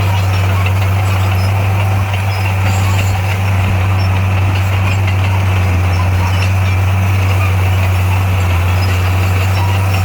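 Diesel engine of heavy earth-moving equipment running at a steady speed, a deep, even sound that holds constant.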